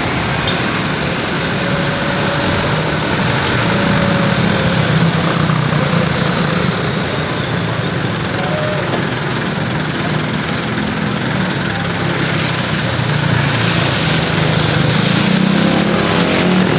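Jet aircraft engines running: a loud, steady rush with a low hum and a faint high whine.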